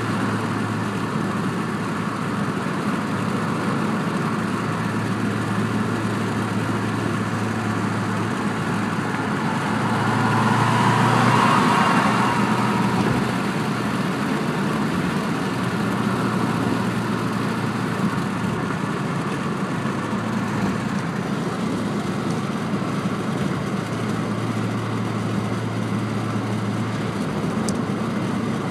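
2006 Subaru Impreza's flat-four engine running steadily through a TurboXS aftermarket exhaust, with a low, even hum. Around the middle it swells louder for a couple of seconds.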